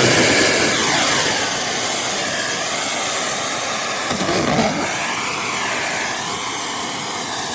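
Miele Boost CX1 bagless canister vacuum cleaner running at high suction with an attachment fitted: a loud, steady rush of air with a whine whose pitch wavers up and down as the airflow through the nozzle changes.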